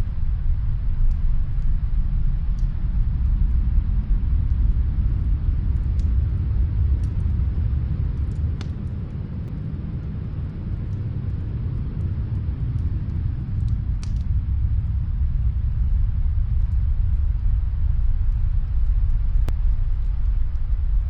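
Low, rumbling snowstorm wind, easing a little around the middle and building again. A few faint, scattered crackles of a fire come through it.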